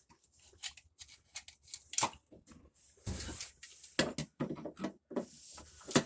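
Scattered metal clicks and clanks of hand tools and parts being handled while a part is worked off the washer, with a short rasping stretch about three seconds in.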